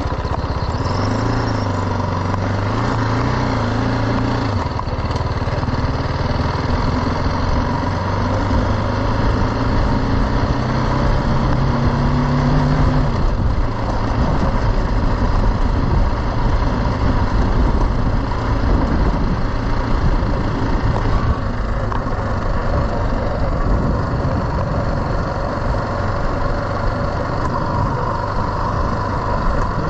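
BMW G310 GS single-cylinder engine running under way on a dirt track, its note climbing slowly for the first dozen seconds. After that it is buried under a louder rush of wind on the microphone.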